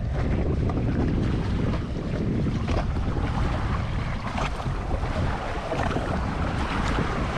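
Wind buffeting the microphone on a small boat, with water splashing and slapping against the hull in a few sharp hits.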